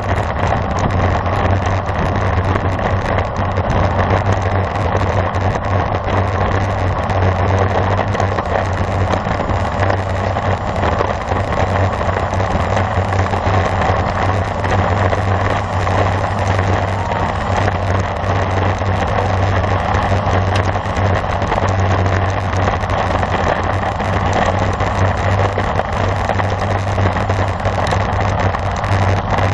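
Steady rushing tyre and wind noise of a road bicycle riding at speed, over a constant low hum.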